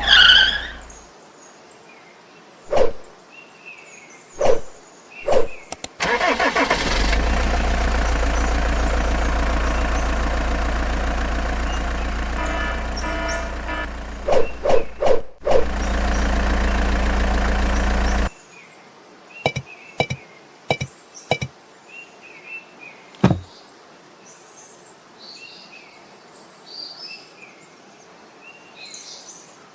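A mini truck's small motor runs steadily for about eleven seconds, then cuts off suddenly. Sharp knocks and clacks come before and after it, and birds chirp faintly near the end.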